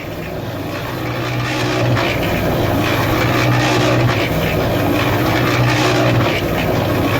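A small motor running with a steady drone whose pitch wavers slightly, growing louder over the first two seconds.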